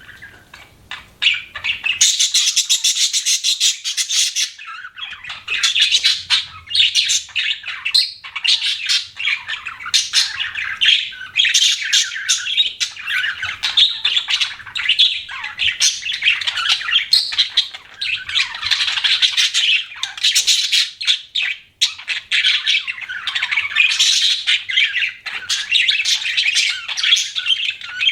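Budgerigars chirping and chattering in a fast, continuous warble. A few sparse chirps give way to dense chatter about two seconds in.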